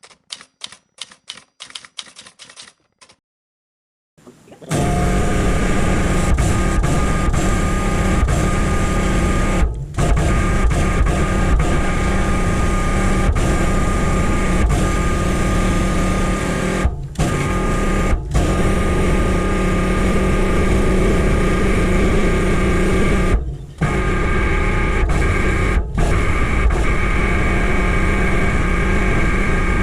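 Rapid clicking for about three seconds. Then an electric pressure washer starts, and its motor runs with a steady hum while the jet sprays. It cuts out briefly several times as the trigger is let go.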